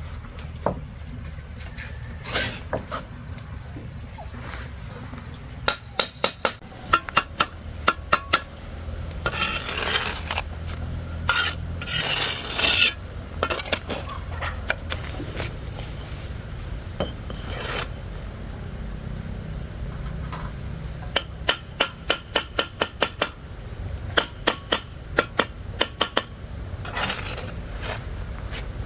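Runs of sharp metallic taps and clinks, several ringing briefly, at about three to four a second, with a few rasping scrapes in between: hand-tool work on construction materials.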